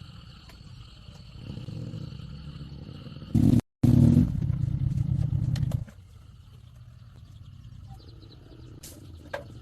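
An engine running with a low, steady rumble. The sound breaks off abruptly for a moment a little under four seconds in, comes back louder for about two seconds, then drops to a lower level.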